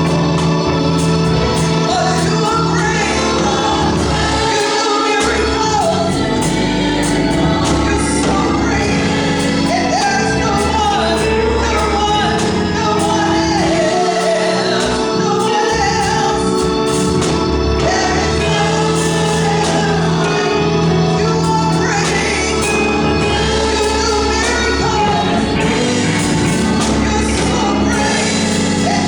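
Gospel music: a choir singing over instrumental accompaniment with sustained low notes and a steady percussive beat.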